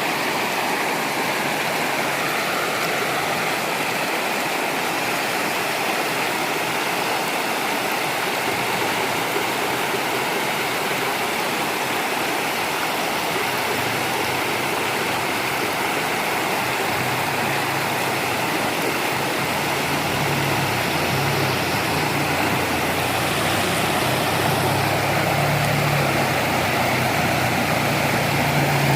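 Steady rush of a waterfall's falling water. About halfway in, a vehicle engine's low hum joins it and grows louder toward the end.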